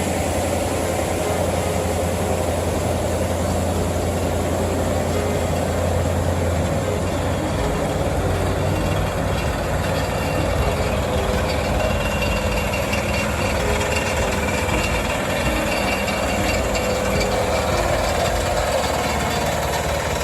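Heavy-haul truck's diesel engine running steadily as it moves under a heavy load, a constant low hum with a slight change in tone about six seconds in.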